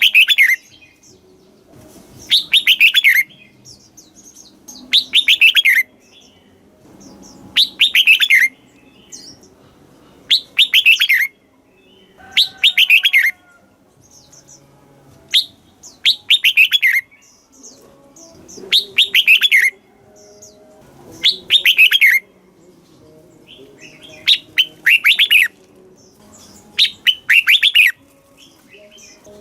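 Red-whiskered bulbul singing: short, bright warbled phrases of falling notes, each about a second long, repeated roughly every two and a half seconds.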